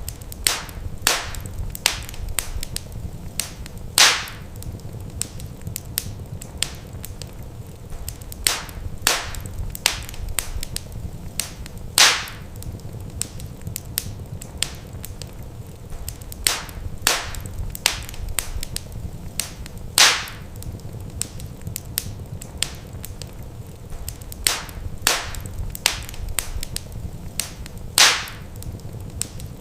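Wood fire crackling in a fireplace, with sharp pops from the burning logs every second or so over a low steady rumble. A louder single pop comes about every eight seconds.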